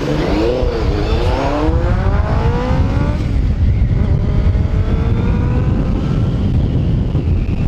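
Motorcycle pulling away and accelerating through the gears, its engine pitch climbing, dropping at a gear change about three seconds in and climbing again. A dense low rumble of wind on the microphone runs under it.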